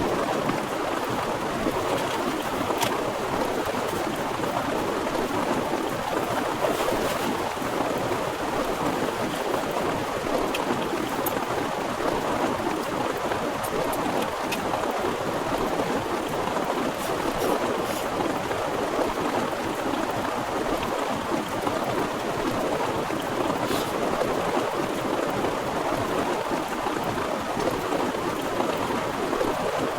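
Heavy rain falling in a steady downpour, an even hiss with a few sharper drop ticks here and there.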